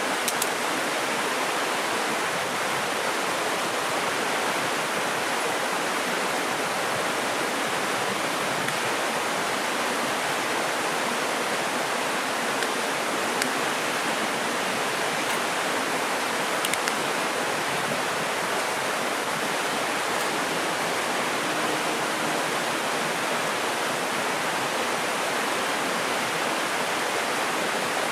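Mountain stream rushing steadily over rocks, an even unbroken roar of water, with a few faint ticks now and then.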